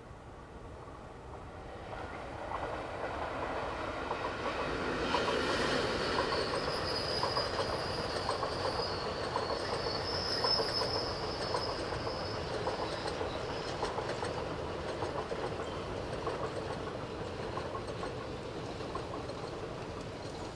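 A train passing: the wheels clatter over the rail joints, building up for the first few seconds, with a high wheel squeal in the loudest stretch, then slowly fading away.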